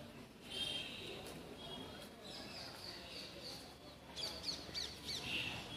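Small birds chirping, with a quick run of short falling chirps about four seconds in, over faint background noise.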